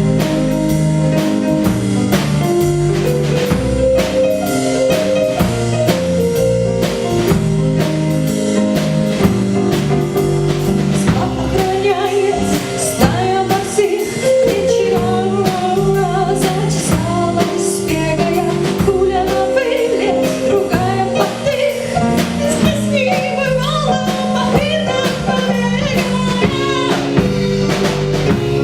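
Live band playing: a drum kit keeps a steady beat under bass and sustained chords, and a high, wavering melody line comes in about eleven seconds in.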